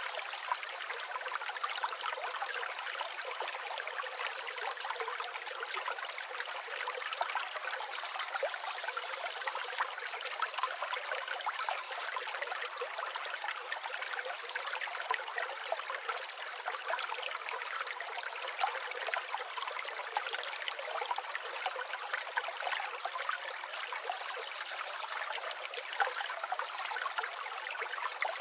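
River water flowing and babbling over stones in a steady, even rush, with no low rumble. A single faint high bird chirp comes about ten seconds in.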